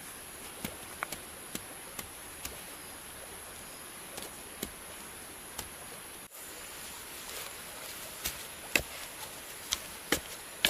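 Irregular sharp knocks of a blade chopping bamboo: scattered light strikes at first, then, after a brief break about six seconds in, louder and quicker chops. A steady high whine runs underneath.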